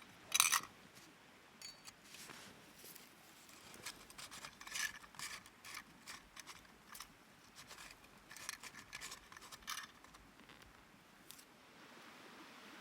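Crisp, close snipping and scraping sounds in three clusters: a loud one about half a second in, more around the middle, and another run near the end.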